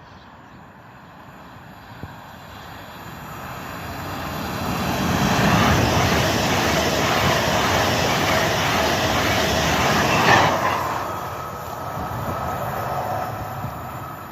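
A train going by the station platform. It builds up from a low rumble, runs loud with rushing wheel and rail noise for several seconds, with a brief sharp clatter near the loudest point, then eases off.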